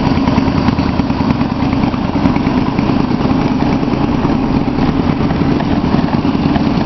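Yamaha V Star 250's V-twin engine idling steadily through West Eagle drag-pipe exhausts fitted with fiberglass-wrapped baffles. The exhaust note is gutsy but not too loud.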